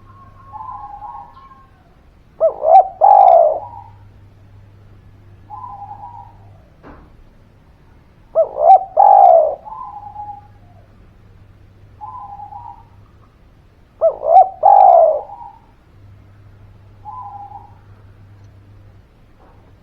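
Spotted dove (derkuku, tekukur) cooing. Three loud, rolling coo phrases come about six seconds apart, with shorter, softer coos in between.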